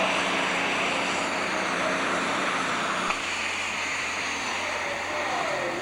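Super stock pulling tractor's turbocharged diesel engine running hard as it pulls the sled down the track, heard as a steady engine din from the grandstand. About three seconds in, its low hum drops away.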